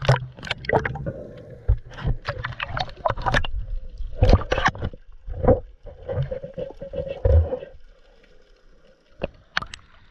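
Underwater sound of a scuba diver's breathing: irregular bursts of bubbling from the regulator exhaust, with sharp clicks and knocks. It thins out to a few scattered clicks near the end.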